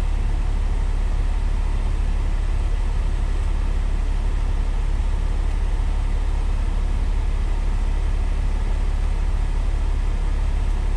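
Steady low engine rumble of an idling truck, unchanging throughout.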